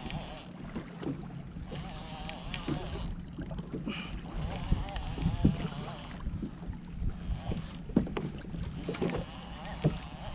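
Water slapping against a fishing kayak's hull, with irregular knocks and bumps on the boat and wind on the microphone.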